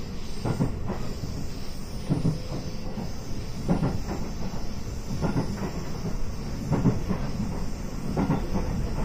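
Running noise of a JR West 221 series electric train heard from inside the passenger car: a steady rumble and hiss, with a clickety-clack of wheels over rail joints about every second and a half.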